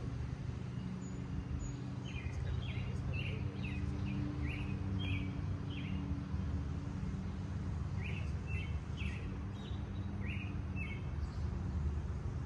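A small bird chirping in two runs of short repeated notes, over a steady low rumble.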